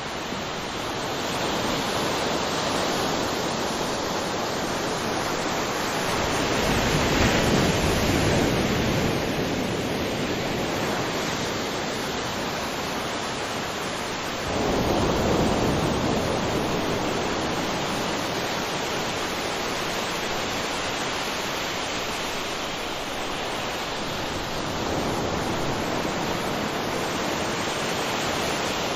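Waterfall: a steady rush of falling water, swelling louder about a quarter of the way in and again, more suddenly, about halfway through.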